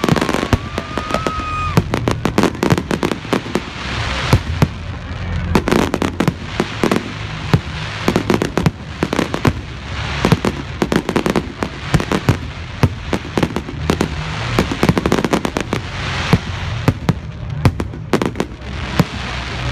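Fireworks going off in a dense, irregular barrage of bangs and crackles, with a brief whistling tone in the first two seconds.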